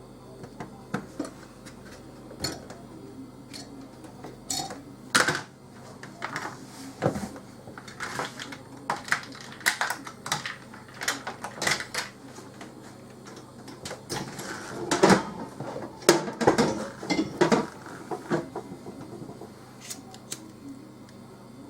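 Irregular clicks and metallic clinks of small hard objects being handled, loudest around five seconds in and again around fifteen to seventeen seconds, over a faint steady low hum.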